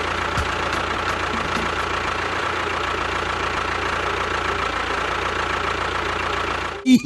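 A motor running steadily at an even speed, with a faint steady whine over the noise, cutting off suddenly near the end.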